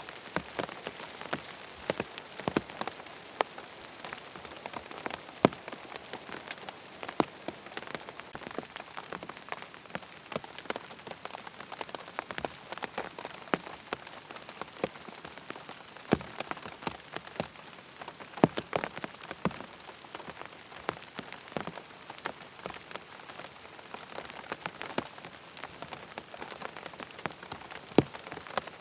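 Steady rain falling on a surface, an even hiss with frequent sharp, irregular ticks of close drops.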